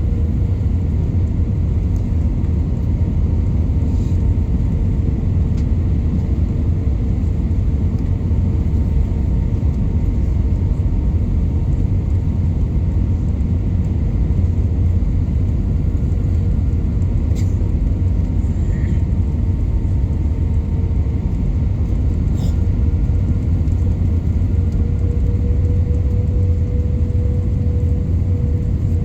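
Airliner cabin noise during the landing approach: the steady, heavy rumble of the jet engines and rushing air, with a steady engine hum on top and a few faint clicks.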